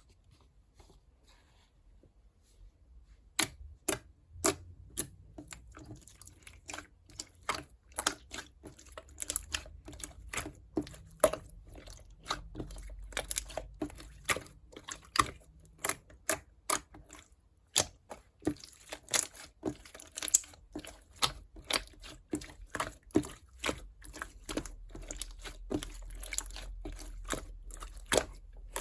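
Clear green slime being squished and poked, giving sharp clicky pops about one or two a second, starting about three seconds in.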